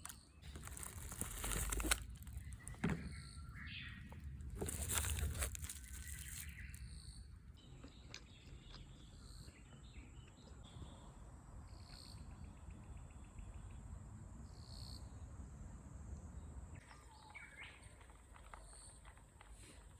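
Outdoor ambience of birds chirping and insects buzzing, with a steady high insect drone through the middle. Two louder bursts of noise come in the first six seconds.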